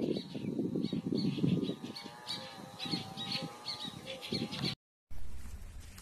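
Birds chirping repeatedly in short, high notes, about three a second, with a longer wavering call in the middle, over a loud, low rustling noise. The sound cuts out suddenly near the end and gives way to a low hum.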